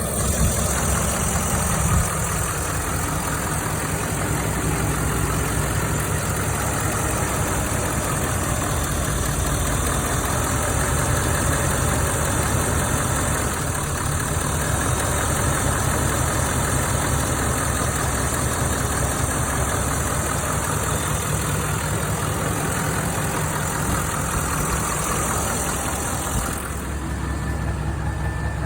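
Nissan Titan XD's 5.0 L Cummins V8 turbodiesel idling steadily.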